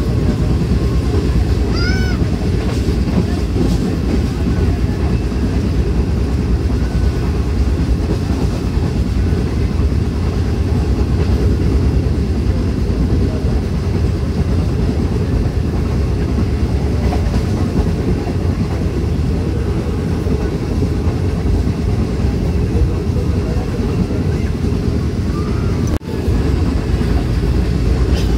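Train running along the rails with a loud, steady rumble of wheels on track.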